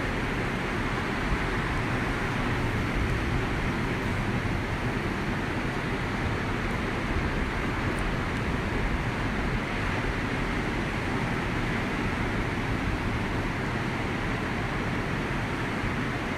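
Steady outdoor rushing noise, with a fluttering low rumble throughout.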